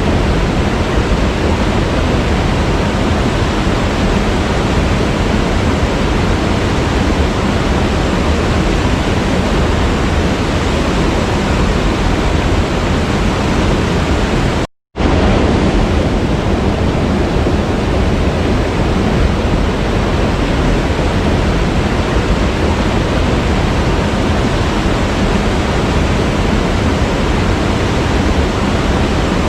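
Waterfall rushing, a steady, even roar of falling water. It cuts to silence for a split second about halfway through, then resumes unchanged.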